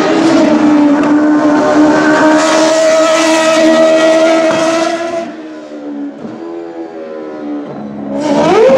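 Ferrari 150° Italia Formula 1 car's V8 engine held at high revs with a steady pitch, then easing off to a quieter, lower, wavering note about five seconds in, and revving sharply up again near the end.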